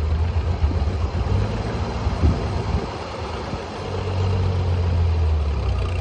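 Antique farm tractor engine running steadily at low speed. It eases off briefly about halfway through, then picks up again.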